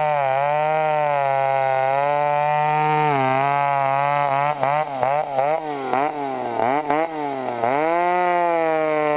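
Two-stroke chainsaw running at high revs with a steady whine. For about three seconds midway the pitch repeatedly drops and recovers as the engine bogs under load, as it does when cutting, before it returns to a steady high rev.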